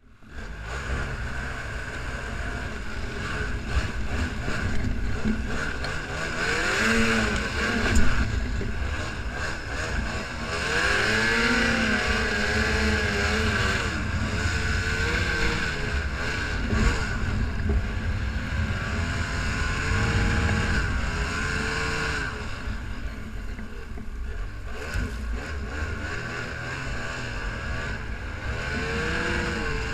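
Snowmobile engine under way, its pitch rising and falling again and again as the throttle is opened and eased, over a steady rush of track and wind noise, with one sharp knock about eight seconds in.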